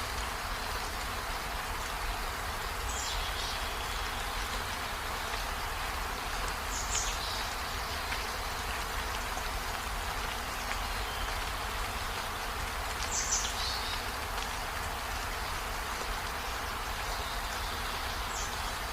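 Steady rain falling, an even hiss with a low rumble beneath it, with a few brief high chirps four times.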